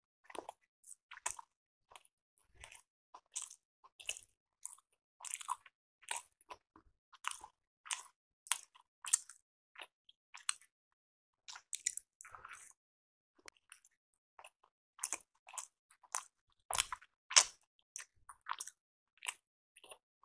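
Close-miked chewing and biting of rice appe (paniyaram): a steady, irregular run of short sharp mouth clicks and crunches, loudest a few seconds before the end.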